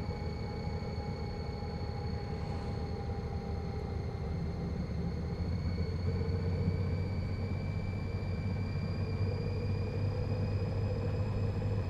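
Honda Gold Wing GL1800's flat-six engine running under way, a steady low drone that grows a little louder about halfway through, with a faint high whine above it that creeps slightly up in pitch.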